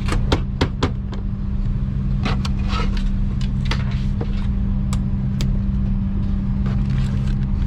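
Steady low drone and hum of a parked Airbus A330-200's cabin air system, with scattered sharp clicks and knocks: a quick run of them in the first second, more spread out later.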